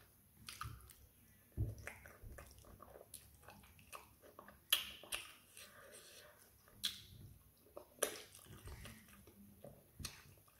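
Close-miked chewing and biting as a person eats fried plantain and fried tilapia by hand, with several sharp wet mouth clicks and smacks, the loudest about halfway.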